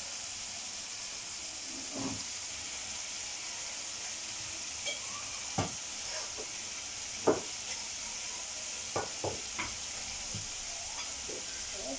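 Masala frying in oil in a kadai with a steady sizzle; it is cooked down to the point where the oil separates. A wooden spatula stirs and scrapes through it, knocking against the pan a few times, loudest about seven seconds in.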